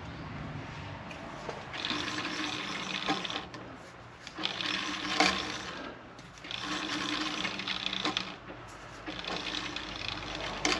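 Metal lathe running three times in short spells of a second or two each, turning a chucked mower spindle housing while dial indicators check its runout.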